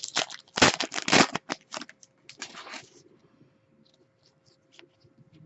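Trading cards and their packaging being handled: rustling, sliding and scraping for about three seconds, then a few faint ticks and taps.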